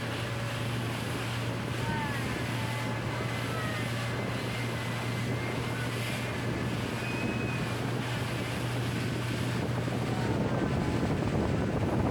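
Small tourist motorboat's engine running steadily with a low, even hum, with wind on the microphone and water rushing past the hull.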